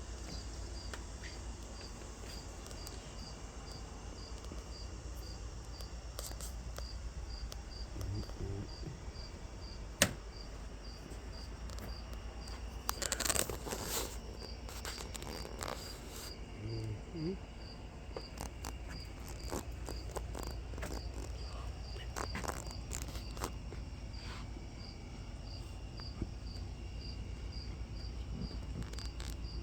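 A cricket chirping steadily, about two chirps a second, over a low steady hum. A single sharp click about ten seconds in, and brief rustling noises a few seconds after it.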